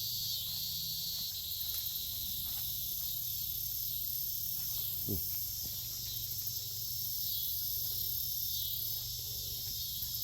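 Insects trilling in a steady, pulsing chorus. A brief low sliding sound comes about five seconds in.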